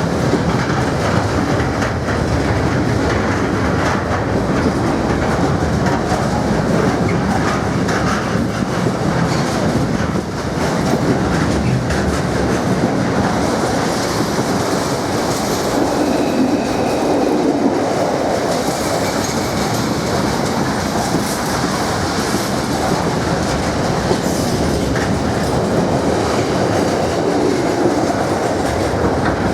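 Freight train wagons rolling past at steady speed, wheels clicking over the rail joints in a continuous clickety-clack, with a faint wheel squeal about halfway through.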